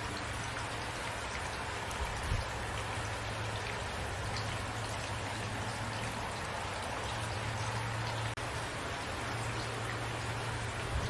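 Steady rain falling, an even hiss with scattered drop ticks and a steady low hum underneath; a single soft thump about two seconds in.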